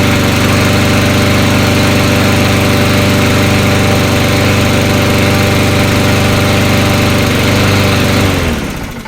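2007 Troy-Bilt walk-behind lawn mower engine running steadily after a cold start, then winding down to a stop about eight seconds in.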